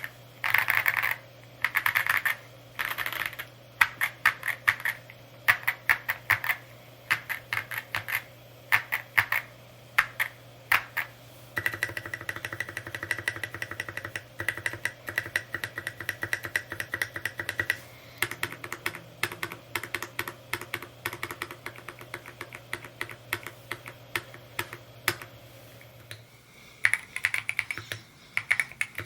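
Mode Encore 2 mechanical keyboard being typed on: a steady run of key clicks, sometimes spread out and sometimes in fast bursts, with a short break near the end.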